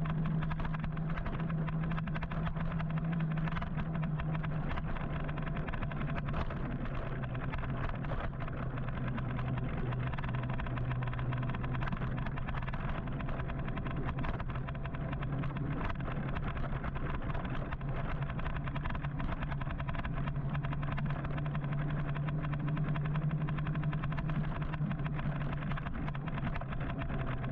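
City road traffic: vehicles running close by, with a steady low hum over continuous road noise.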